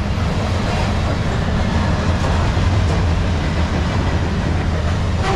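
A freight train's flatcars carrying open-top containers rolling past: a steady rumble of steel wheels on the rails.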